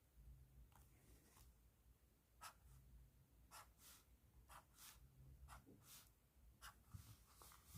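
Pen tip scratching on paper in about a dozen short, irregular strokes, faint.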